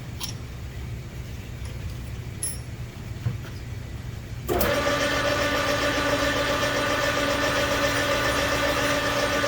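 A few small clicks over a low hum, then about halfway through a metal lathe is switched on. Its spindle comes straight up to a steady run with a whine of several fixed pitches.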